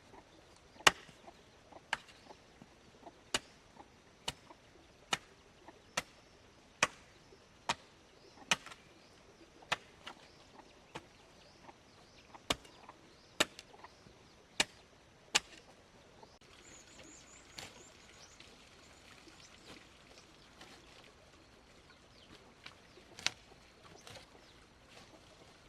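Repeated sharp chopping strikes into wood, about one a second, stopping after about fifteen seconds with one more strike later. A bird chirps briefly in the pause.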